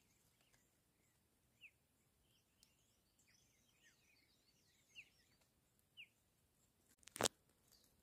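Faint birds chirping, a few short separate chirps over fainter warbling, in near-quiet natural ambience. One sharp knock near the end.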